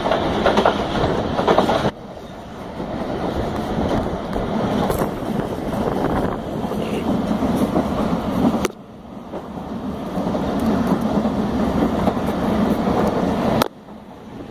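Train running noise heard from a window of a moving train: wheels on the rails and rushing air. The level drops suddenly about two, nine and fourteen seconds in, then builds back up.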